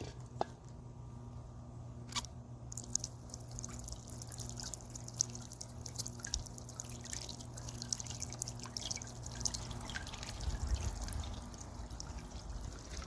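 Small solar-powered bird bath fountain spraying water that falls back into the basin as a steady patter of drips and splashes.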